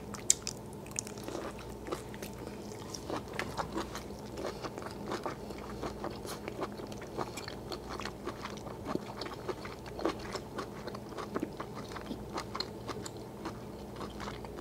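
A person chewing lobster meat, a steady run of small wet mouth clicks and smacks, with one sharper click just after the start.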